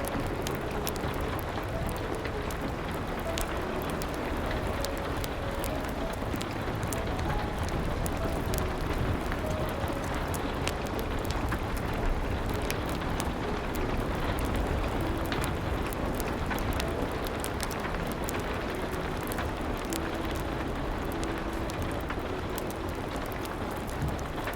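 Steady rain with scattered sharp crackles of a wood fire, and soft, sparse piano notes faintly underneath.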